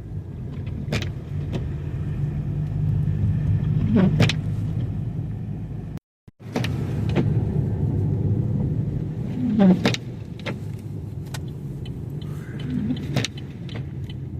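Car cabin noise while driving on a snowy road: a steady low hum from engine and tyres. A short knock or squeak comes about every three seconds, and the sound cuts out briefly midway.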